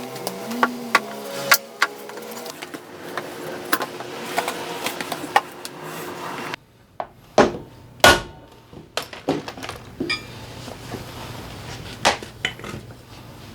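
Hand tools and metal engine parts knocking and clinking irregularly as an engine is taken apart. A faint steady hum fades out in the first couple of seconds. The sound cuts off abruptly about six and a half seconds in, and the loudest knocks come soon after.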